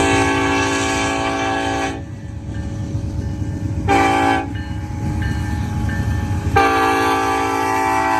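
Union Pacific SD70-series diesel locomotive sounding its air horn three times, long, short, long, over the steady low rumble of the approaching train.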